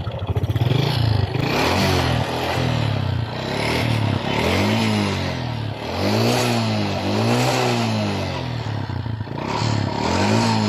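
Honda XRM 125's single-cylinder four-stroke engine running and revved up and down repeatedly, each blip of the throttle rising and falling in pitch. The engine has piston slap, a knocking from the cylinder block that the mechanic says grows louder when revved.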